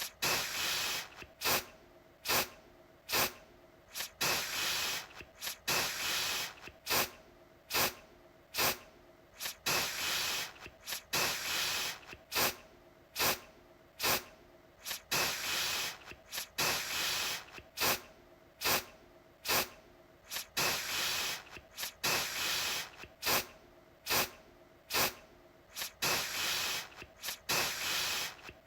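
Aerosol deodorant can spraying in repeated bursts: quick short puffs mixed with longer hissing sprays of about a second, one after another with brief gaps.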